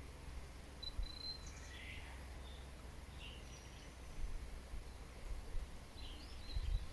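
Wild birds calling on and off with short chirps and brief high whistled notes, over a steady low rumble.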